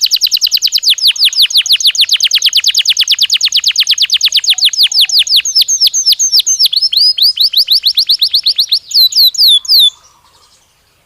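Belgian canary singing a fast trill of rapidly repeated, downward-sweeping whistled notes, about ten a second. After about five seconds the phrase changes to slower, more varied notes, ending in a few louder sweeps before the song stops abruptly about ten seconds in.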